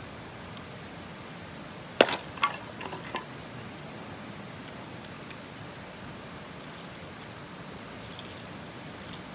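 A clatter of hard objects knocking together about two seconds in, followed by a few quieter clinks and knocks and, a couple of seconds later, three small sharp ticks, over a steady hiss.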